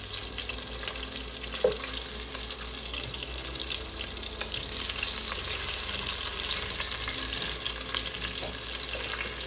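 Chicken pieces sizzling and crackling in hot oil in a pot while a wooden spoon stirs and lifts them, the sizzle growing a little louder about halfway through. A single knock about two seconds in.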